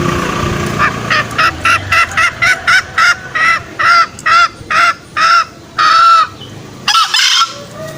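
A hen cackling: a run of short clucks that grow longer and more drawn out, ending near the end in a loud, harsh squawk.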